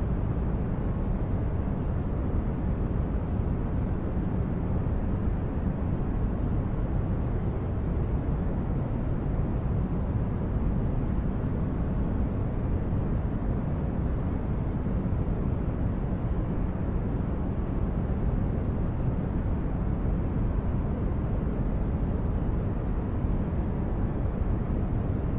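Sci-fi spaceship ambience: a steady, deep brown-noise rumble like a starship's engines heard from inside, even throughout with no distinct events.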